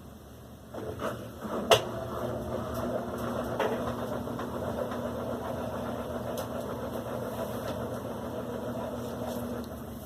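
Electrolux LAC16 washing machine starting its motor: a sharp click about two seconds in, then a steady, even machine hum as it runs its spin on the silent programme.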